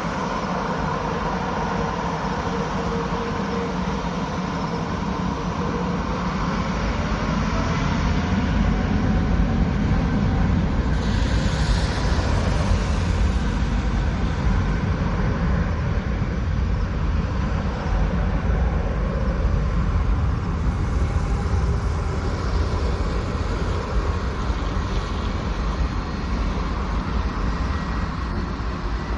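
Boeing 777-300ER's twin GE90-115B turbofan engines at high thrust: a steady deep roar and rumble with whining fan tones. It gets louder about nine seconds in.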